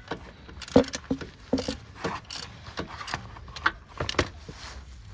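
Irregular metallic clinks and knocks of tools and an oil drain pan being handled, as the car is readied for its engine oil to be drained.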